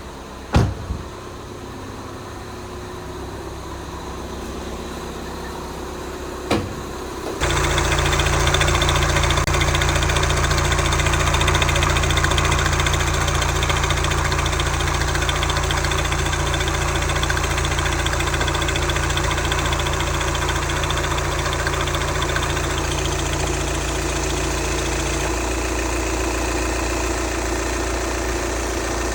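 Two thuds, then about seven seconds in the Volkswagen Passat's 2.0-litre turbodiesel four-cylinder starts abruptly and settles into a steady idle. The idle note drops slightly near the end.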